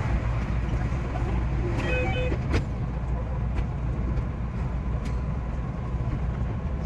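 Time-lapsed, sped-up cab audio of a JR West 227 series electric train running: a steady rumble of wheels and motors with scattered clicks. A short beeping tone comes about two seconds in.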